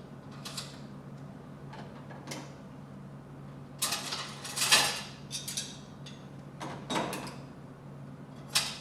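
Intermittent clatter and rattle of silverware being put into a dishwasher's cutlery basket, a few separate handling noises with the loudest clatter about four to five seconds in.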